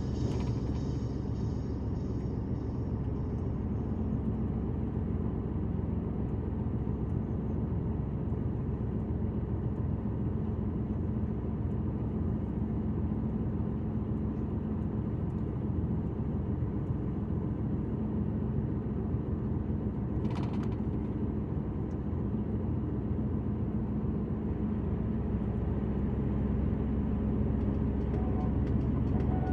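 Truck on the motorway: a steady low engine and road rumble with a held hum, and one brief click or rattle about 20 seconds in.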